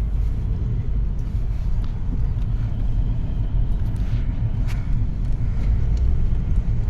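Steady low rumble of a car being driven, heard from inside the cabin, with a few faint ticks.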